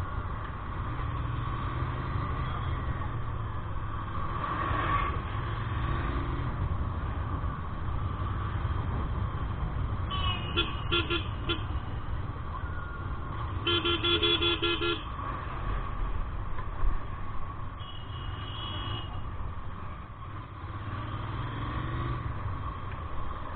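Vehicle horns honking over a steady road and wind rumble while riding: a stuttering run of short toots about ten seconds in, a longer, louder honk around fourteen seconds, and a fainter, shorter one near eighteen seconds.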